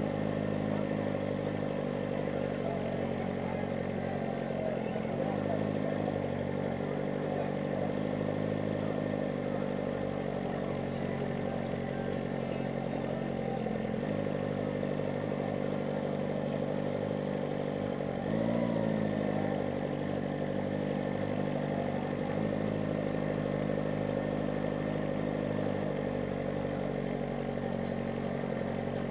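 Kawasaki ZX-4RR's 399 cc inline-four engine running at a steady cruise, its note stepping up or down a few times as engine speed changes, with a short rise and fall in pitch about eighteen seconds in.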